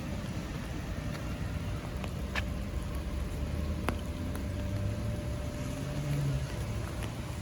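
Steady low rumble of road traffic, with a vehicle's engine swelling as it passes about five to six seconds in, and a few sharp ticks of raindrops in a light rain.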